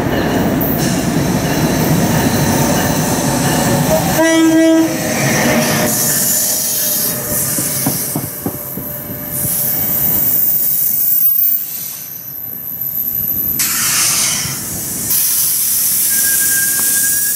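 NJ Transit train running past with loud, steady rolling and wheel noise, a short horn blast about four seconds in, and a thin wheel squeal near the end.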